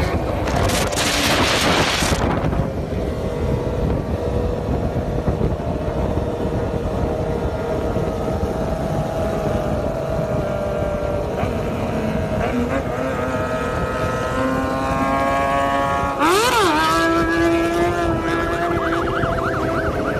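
Motorcycle engine running under way, its pitch rising and falling with the throttle, with bursts of wind rush. About 16 seconds in the engine note dips and climbs quickly as the throttle is blipped.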